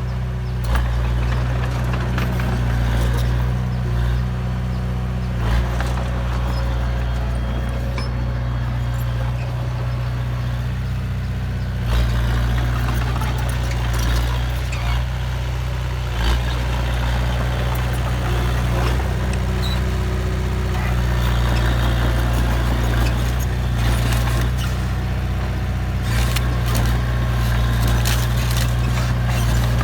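Heavy diesel engine of construction machinery running steadily with a deep, even drone, with a few short knocks and clanks over it.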